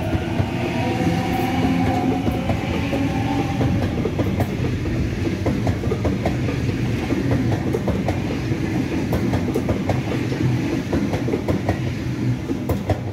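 A train running along the track, its wheels clicking over rail joints over a steady rumble, with a whine in the first few seconds that fades away.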